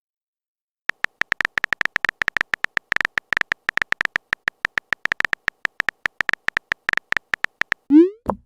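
Rapid, irregular run of many short, identical high electronic beeps, a chat typing sound effect as message text appears letter by letter. It ends with a short rising swoop, like a message-sent sound, near the end.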